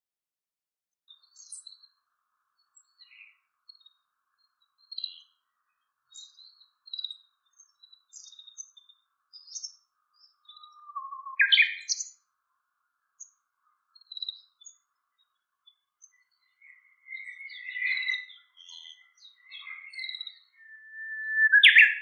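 Small wild songbirds calling: many short, high chirps and tweets scattered irregularly, with louder calls about halfway through and again near the end.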